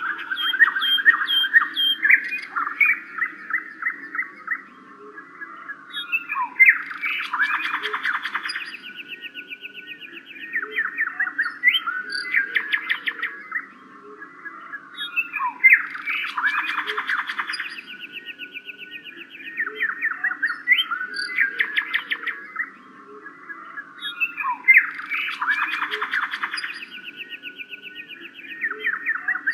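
Birds chirping and trilling in a sequence of quick notes that repeats about every nine seconds, over a steady low hum.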